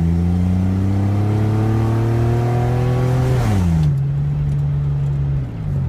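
Chevy S10 Blazer's 4.3-litre V6 at wide-open throttle, heard from inside the cab: the revs climb steadily under load for about three and a half seconds, then fall sharply as the automatic transmission shifts up, and dip once more near the end.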